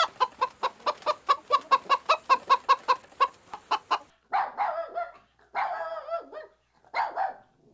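Chicken clucking: a fast run of short clucks, about five a second, for roughly four seconds, then three longer, wavering calls with short gaps between them.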